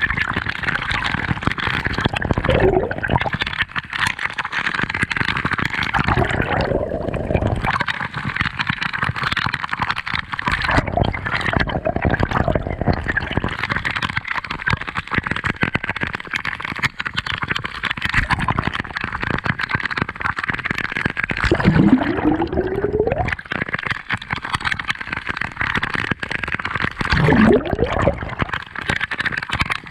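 Seawater sloshing and gurgling against a camera held in or at the surface of the sea, a steady wash of water noise with two rising gurgles in the second half.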